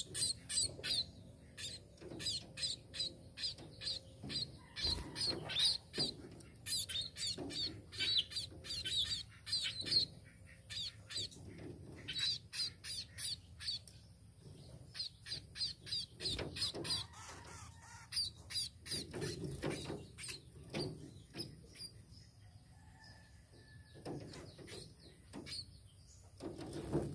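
A tame small finch (burung pipit) chirping: rapid runs of short, high chirps, dense for the first half, then sparser, with a brief lull before they pick up again at the very end.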